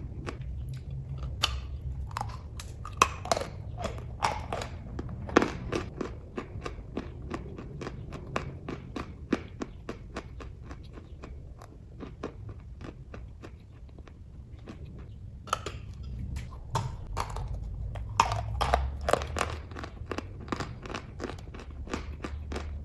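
Close-up chewing of kaju katli cashew fudge: a person biting and chewing with quick moist mouth clicks, louder and busier twice, a second or so in and again around the middle to the end.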